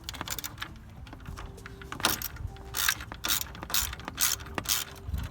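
Socket ratchet clicking in repeated back-and-forth strokes while an 8mm bolt is backed out. The strokes get louder and come about twice a second from about two seconds in.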